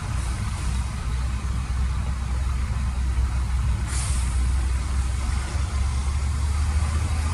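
Heavy diesel machine engine running steadily with a low drone, with a short hiss about four seconds in.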